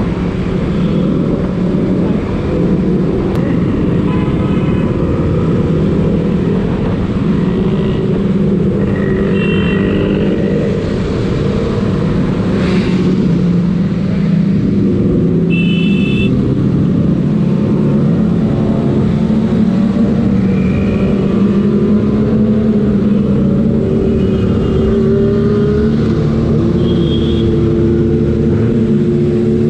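Motorbike engines running steadily on the road, with traffic noise and a few short high beeps about 10 and 16 seconds in.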